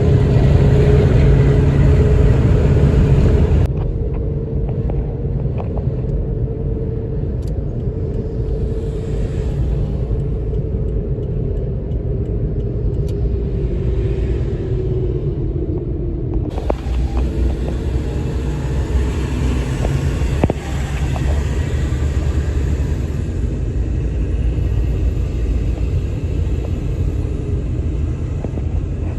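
Steady low rumble of highway traffic. The higher hiss drops away suddenly about four seconds in and comes back suddenly about seventeen seconds in.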